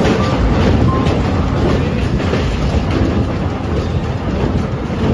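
Passenger train running, heard from inside the carriage: a loud, steady rumble with wheel clatter over the rails. The train is passing onto a steel girder bridge.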